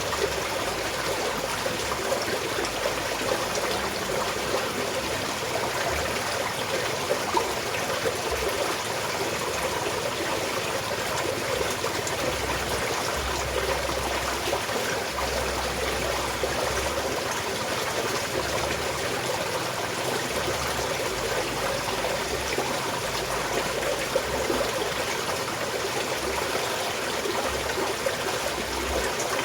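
Small mountain stream flowing steadily, water trickling and splashing over stones, with occasional small splashes standing out.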